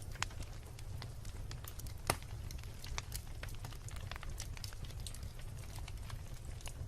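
Wood fire crackling and popping, with scattered sharp snaps over a steady low rumble of burning; one louder pop about two seconds in.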